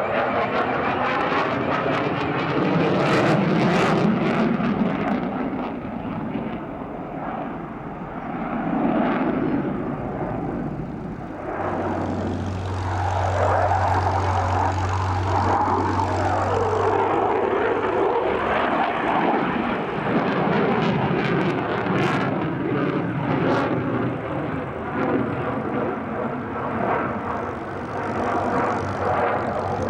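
Display aircraft's engine during a flying display, its note rising and falling in pitch as the aircraft manoeuvres and passes, with a steady low hum for a few seconds in the middle.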